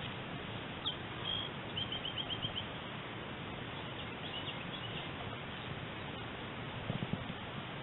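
A small bird chirping over a steady outdoor hiss, with single high chirps and, about two seconds in, a quick run of about six chirps.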